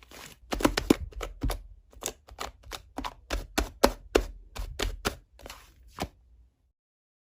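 Slime being pressed and squished by hand, a quick run of sticky clicks and pops about four a second that stops about six and a half seconds in.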